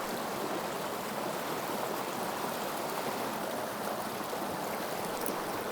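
Creek water running steadily over stones, an even rushing hiss.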